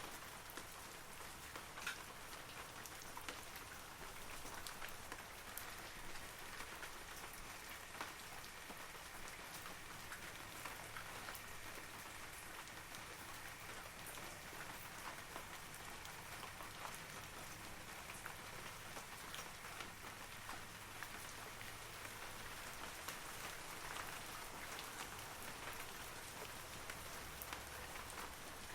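Steady light rain falling on forest leaves, a soft even hiss with many individual drops ticking through it.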